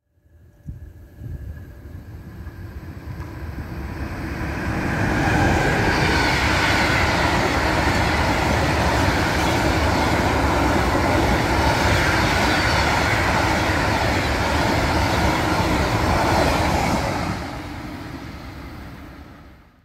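Freight train passing close by: the rumble and clatter of wheels on rails build over about five seconds, stay loud and steady for about twelve, then fade near the end.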